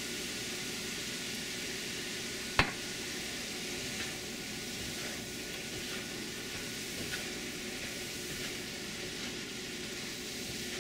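Cauliflower rice and sausage sizzling steadily in a hot wok with soy sauce just poured in, stirred with a spatula that scrapes the pan now and then. One sharp knock comes about two and a half seconds in.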